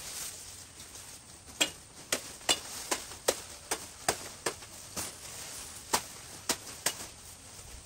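A series of about a dozen sharp knocks, roughly two to three a second, starting about a second and a half in and spacing out irregularly toward the end.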